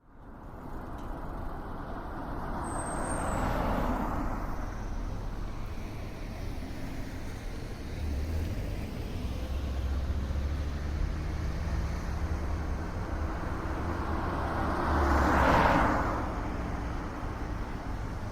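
Road traffic over a steady low rumble: one vehicle swells up and fades away about three to four seconds in, and a louder one passes about fifteen seconds in.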